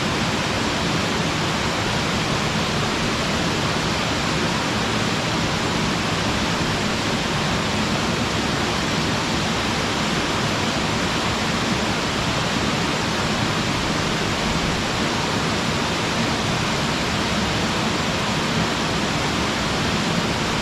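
Small mountain waterfall: water falling and splashing onto the rocks in a steady, even rush.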